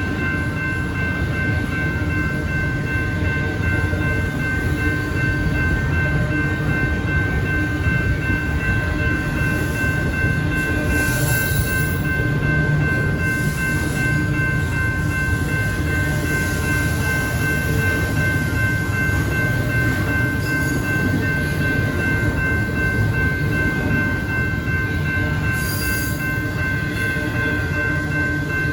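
A train rolling past, its cars making a steady low rumble, with a steady high-pitched tone held throughout.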